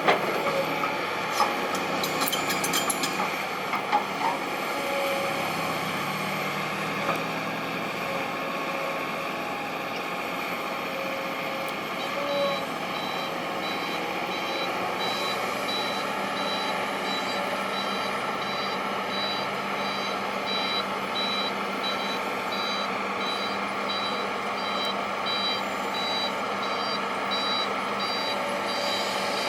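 Heavy diesel machinery, an excavator and a dump truck, running steadily. Partway through, a reversing alarm starts beeping at an even pace and keeps on.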